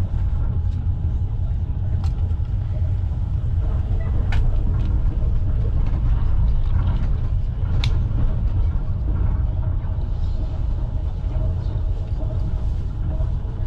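Passenger train running along the track, heard from inside the carriage: a steady, heavy low rumble of the wheels and running gear, with three sharp clicks spread through it.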